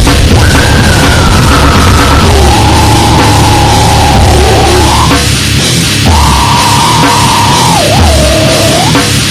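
Very loud goregrind/noise music: a dense wall of distorted noise, with a held, wavering pitched tone on top that jumps to a new pitch every second or two.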